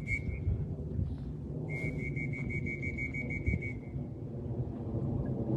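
A rapid run of short, high electronic beeps, evenly spaced at about five or six a second, lasting about two seconds, over a steady low rumble. A brief beep sounds at the very start.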